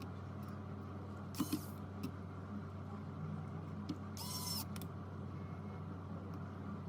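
Steady low hum with a pair of small clicks about one and a half seconds in and a short squeaky scrape about four seconds in.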